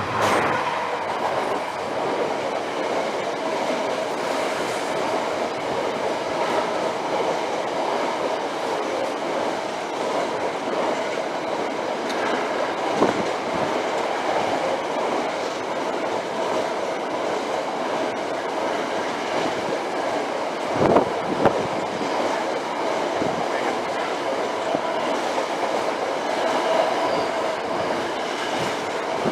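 A train running past steadily, its wheels rolling on the rails. There are a few sharper knocks, about halfway through and again about two-thirds of the way in.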